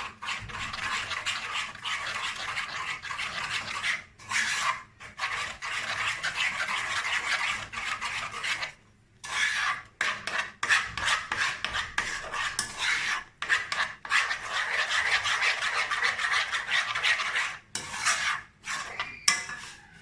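Egg, cornstarch and yogurt being beaten together by hand in a bowl: a fast, continuous scraping rasp of the utensil against the bowl, pausing briefly a few times.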